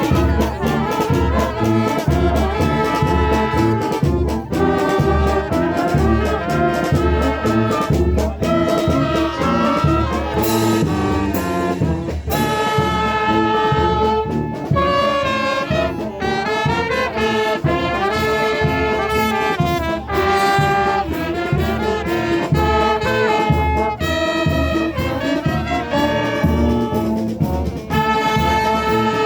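Brass-led music, trumpets and trombones playing melodic lines over a steady low beat.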